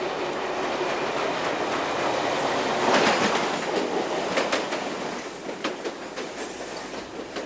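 Sydney electric commuter train running past on the rails, loudest about three seconds in and then fading, its wheels clicking over the rail joints.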